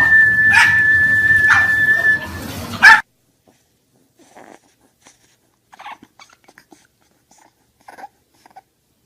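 A dog whining on one long, high, steady note, broken by three sharp yelps, the last one the loudest. It cuts off abruptly about three seconds in, leaving only faint scattered ticks.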